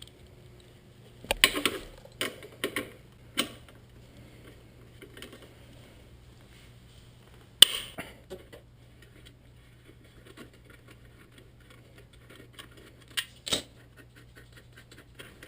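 Scattered metal clicks and knocks of a socket wrench working loose the bolts that hold a motorcycle's exhaust silencer, with one sharp clank about halfway through.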